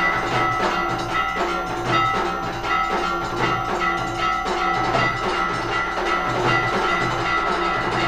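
Temple aarti: metal bells clanging continuously over a steady, repeating drum beat.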